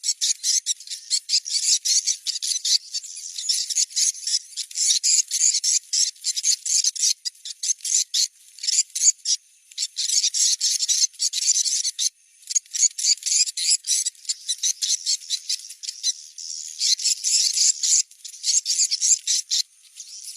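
Recorded swiftlet lure call, the 'location check' sound played to draw swiftlets to a prospective nesting-house site: dense, rapid, high-pitched chirping and twittering in near-continuous runs, with a few brief pauses.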